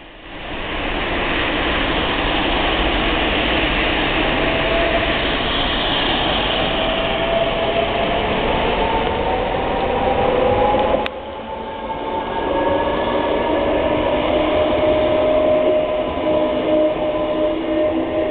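Forchbahn electric light-rail train running along wet street tracks, with wheel-on-rail rumble and a whine that rises in pitch as it passes. About eleven seconds in the sound drops abruptly, then a steadier whine continues over the rail noise.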